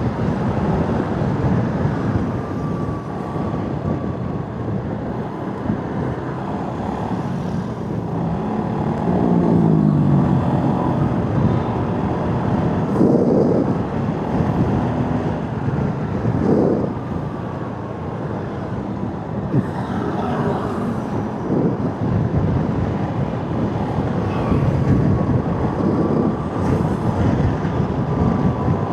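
Motorcycle riding through road traffic: a steady mix of engine, wind and road noise, with the engine pitch rising briefly about nine seconds in.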